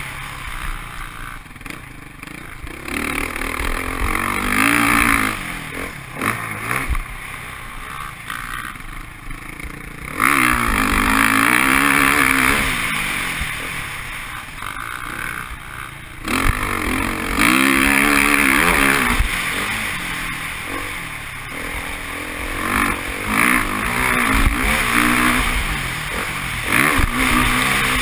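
Motocross bike engine under hard riding: revs rising and falling again and again with the throttle and gear changes, with two long loud full-throttle pulls in the middle.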